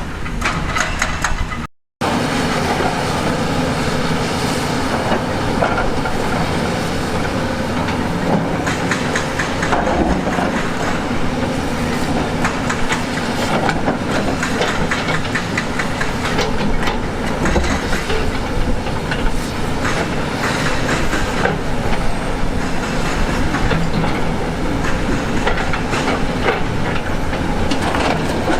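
Heavy earthmoving machinery working: a diesel engine running under continual clanking and scraping of steel against rock, with a brief break about two seconds in.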